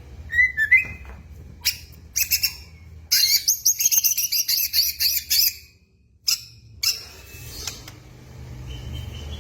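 White-rumped shama (murai batu) singing: a few short whistled notes, then a fast, dense run of high varied notes lasting about two and a half seconds, a brief pause, and softer notes after it.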